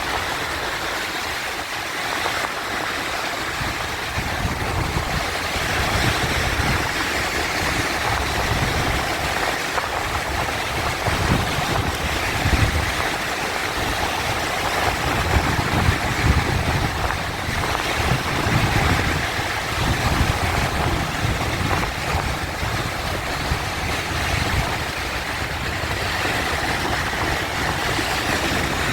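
Sea waves washing in, a continuous rush of churning water with a low rumble that swells and eases.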